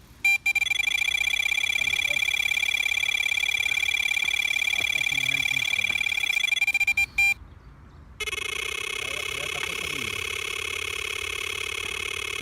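Electronic carp bite alarm screaming as a fish takes line: a rapid run of high beeps that merge into a near-continuous tone, cutting off about seven seconds in. About a second later a second, lower-pitched alarm tone starts and keeps going.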